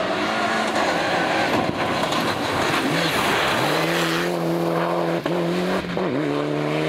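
Rally car on a gravel stage at full throttle: first a noisy rush of engine and tyres on loose surface, then from about halfway a steady high-revving engine note held flat out, with two brief dips near the end.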